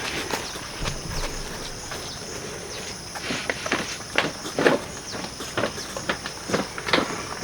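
A string of irregular clicks and crunches, loudest about halfway through and again near the end, over a steady high-pitched hum.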